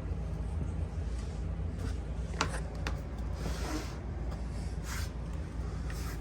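A steady low hum with a few light clicks and a short rustle of handling over it, about halfway through.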